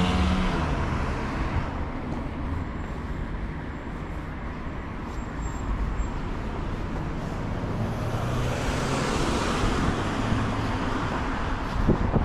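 City street traffic: a vehicle passing fades away at the start, leaving steady road noise, then another vehicle swells past about two-thirds of the way through.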